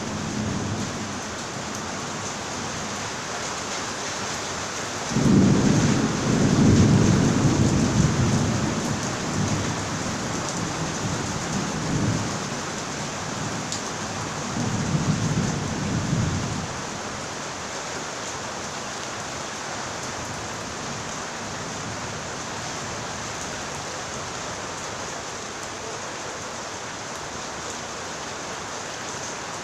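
Steady rain with thunder rumbling in from about five seconds in, loudest at first and rolling on in a few waves for about ten seconds before dying away under the rain.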